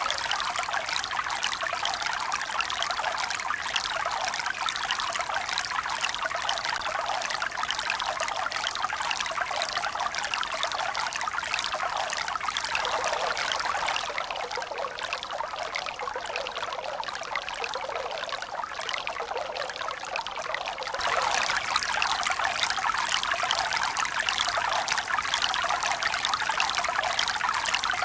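Water running in a steady rush of close splashing and trickling, with little deep rumble. It eases a little for several seconds past the middle, then comes back suddenly louder near the end.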